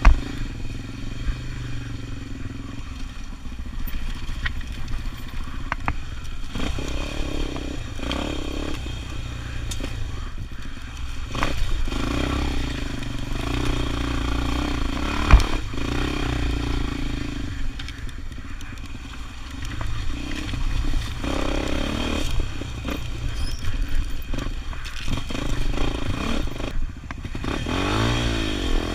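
Motorcycle engine running while the bike is ridden, its pitch rising and falling with the throttle, with occasional sharp knocks and clatter; the loudest knock comes about halfway through.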